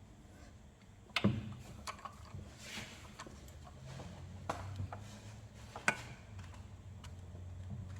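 A few sharp metallic clicks and knocks from a socket wrench on a bolt as it is turned a further quarter turn, angle-tightening after torquing; the loudest come about a second in and again near the six-second mark.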